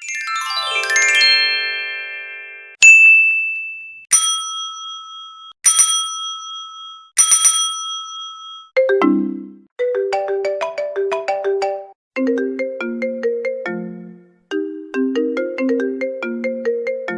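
A run of short chime and bell sound effects. First a cascade of chime tones falls in pitch, then one high ding, then three identical bell strikes about a second and a half apart. From about halfway through comes a quick ringtone-like melody of short marimba-like notes, repeated in several phrases.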